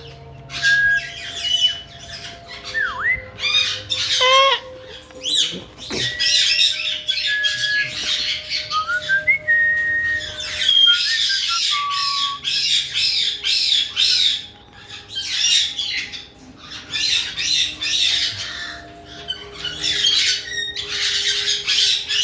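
Caique parrots squawking harshly in repeated bursts, with short whistled notes and sliding whistles in between.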